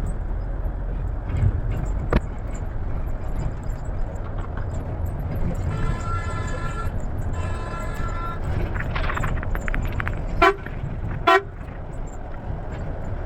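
Steady low rumble of a bus running on the road, with a vehicle horn honking: two longer honks a little past the middle, then two short, loud toots about a second apart near the end.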